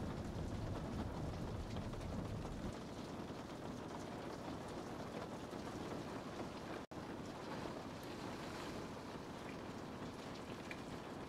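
Steady rain falling, an even hiss of drops. A low rumble underneath stops abruptly about two and a half seconds in, and the sound cuts out for an instant about seven seconds in.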